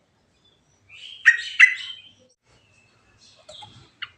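Yellow-vented bulbul (trucukan) singing: a bubbly phrase about a second in with two loud, sharp notes, then softer twittering and one short note near the end.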